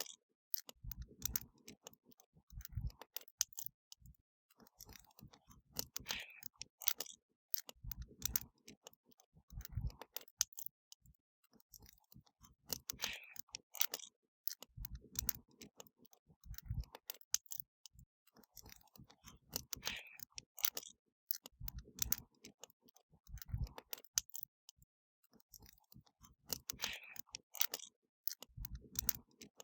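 Wood bonfire crackling: a dense run of sharp snaps and pops with occasional low thuds, the same pattern repeating about every seven seconds.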